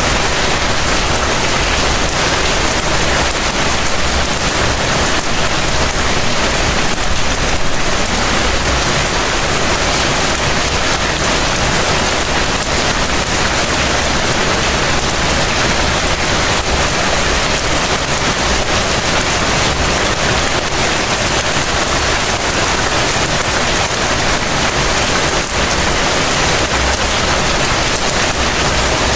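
Heavy rain falling steadily, a dense even hiss of drops on surfaces, with a low rumble that swells and fades underneath.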